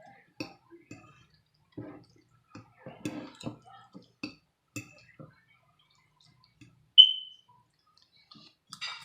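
Close-miked eating sounds: scattered soft wet mouth clicks and light cutlery taps. About seven seconds in comes one bright ringing clink, like metal striking a plate or glass.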